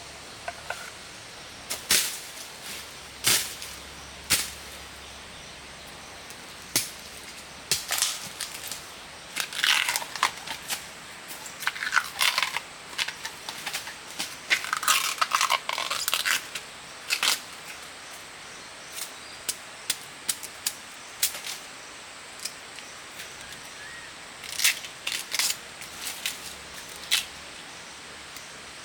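Irregular sharp snaps and clicks, a few close together, with short bursts of rustling, as of dry plant material being handled and broken.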